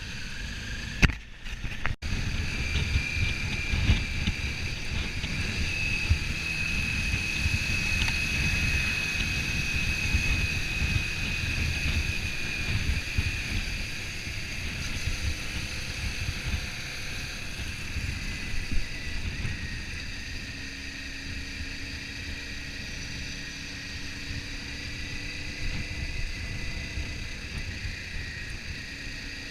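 Wind buffeting the microphone over a Kawasaki Ninja 400's parallel-twin engine running at a steady cruising speed, with a faint steady high whine. The sound drops out briefly about a second in.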